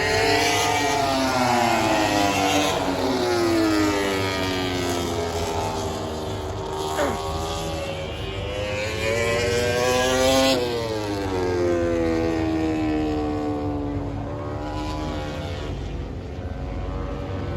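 Racing motorcycles at full speed on a circuit, passing one after another, each engine's pitch rising and then falling as it goes by. One engine's pitch drops suddenly about ten seconds in.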